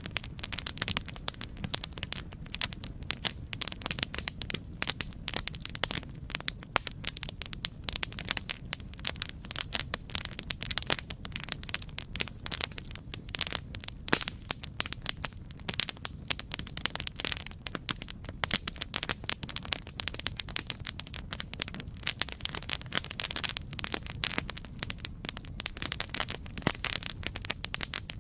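Campfire burning with a continuous, irregular crackle of many sharp pops and snaps over a low steady rumble of the flames.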